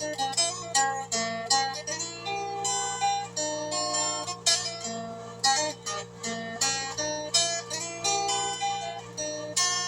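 Instrumental music on a plucked string instrument: quick runs of struck notes that ring and die away, over a steady low drone.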